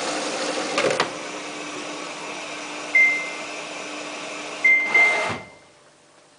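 Samsung WF8804RPA washing machine filling in service mode: a steady hiss of water coming in through the inlet valve, with a few clicks about a second in. Three short high beeps sound from the control panel, then the inflow cuts off suddenly near the end, leaving a low hum.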